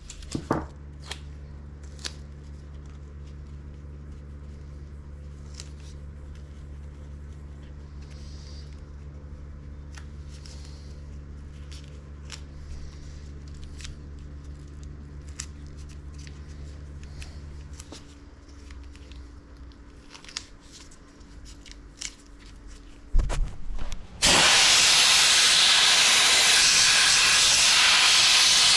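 Scattered clicks and tearing sounds from taping off an engine, over a steady machine hum that stops about two-thirds of the way through. After a few knocks, a loud, steady hiss of a sandblasting gun starts near the end.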